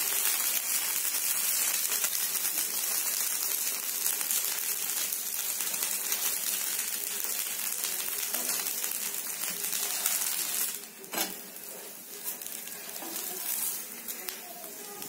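Dosa batter sizzling on a hot nonstick tawa, a dense crackling hiss. About eleven seconds in the sizzle dies down, and a few sharp clicks of the spatula against the pan follow as the dosa is lifted.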